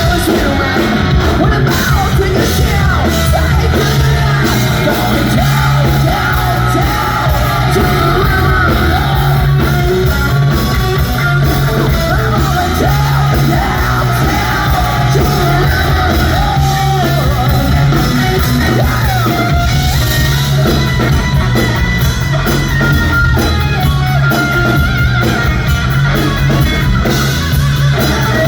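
Live hard rock band playing loudly, with electric guitar and a singer's voice over the band.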